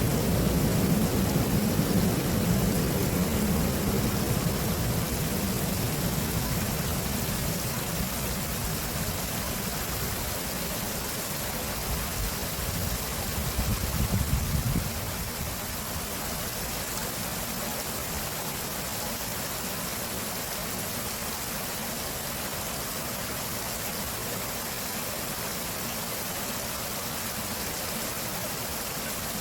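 Running water of a stream, a steady rushing hiss. A low rumble underneath fades and then stops suddenly about halfway through.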